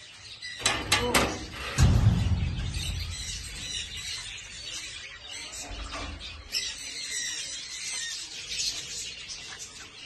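Birds chirping and twittering in an aviary. A few sharp knocks come about a second in, followed by a low rumble.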